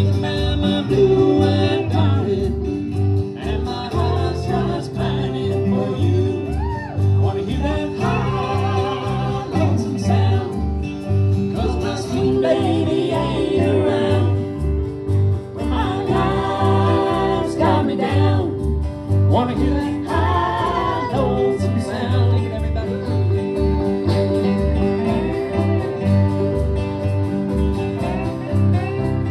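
Bluegrass band playing live, with acoustic guitar and other plucked strings keeping a steady beat under sung vocal phrases that come and go.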